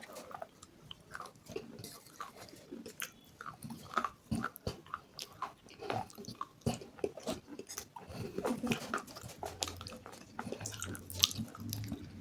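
Close-up eating sounds: a person biting and chewing something crunchy, with irregular crisp crackles and clicks. A faint low hum joins in near the end.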